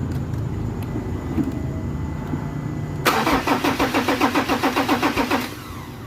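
Ford Ranger 3.2 five-cylinder diesel cranking on the starter for about two and a half seconds without firing, pulsing about six times a second and stopping suddenly. It is cranked with an injector line cracked open to test fuel pressure while bleeding a fuel system that has drawn air. A steady low rumble runs before the cranking.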